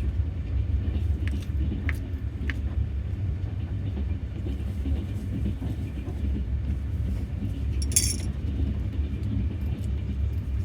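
Steady low rumble of a moving passenger train heard from inside the carriage, with a few light clicks around two seconds in and a brief clink about eight seconds in.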